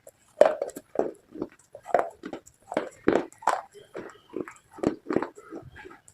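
Close-miked biting and chewing of brittle slate items, a quick irregular run of sharp crunches at about two or three a second.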